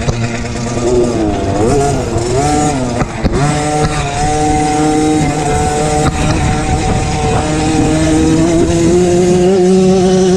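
MXF 50 Pró Racing mini motocross bike's engine, heard from onboard, revving up and down for a couple of seconds, then holding steady high revs; a sharp knock about three seconds in, a dip in revs around seven seconds, and the revs climbing again near the end.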